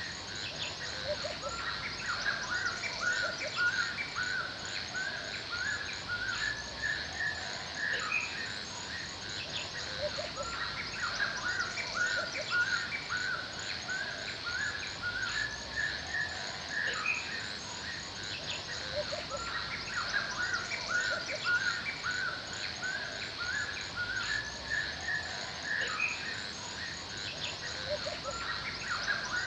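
Forest ambience: several birds chirping and calling continuously in quick, overlapping short notes, over a steady high-pitched drone and soft background hiss.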